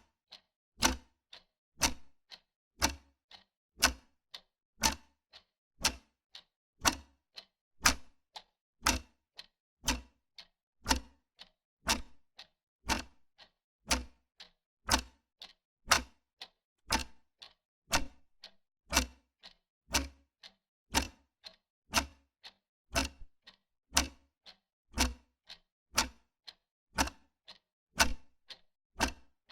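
Wall clock ticking steadily, about one loud tick a second with a fainter tick between each.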